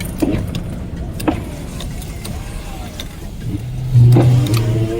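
A truck driving, heard from inside the cab: a steady low road and engine rumble with a few sharp knocks and rattles. About three and a half seconds in, a louder, steady pitched drone comes in over it.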